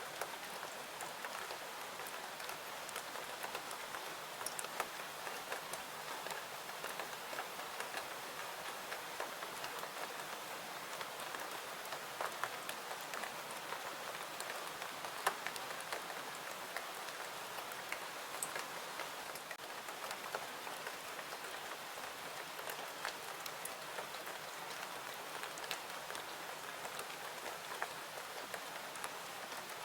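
Steady rain falling, an even hiss with scattered small ticks and pops.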